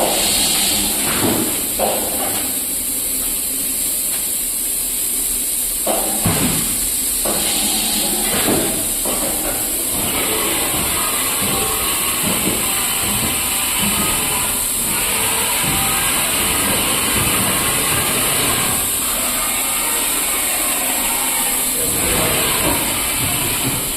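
YCM MV168A vertical machining center running with a steady high hiss, with a few sharp knocks during the first ten seconds.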